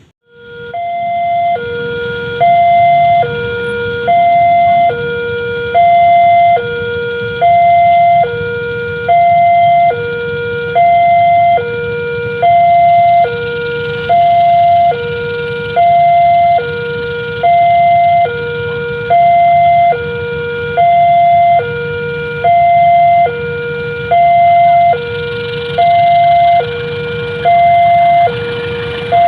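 Railway level-crossing warning alarm sounding an electronic two-tone signal, a low tone and a higher tone alternating about every three-quarters of a second without a break, over a steady low rumble.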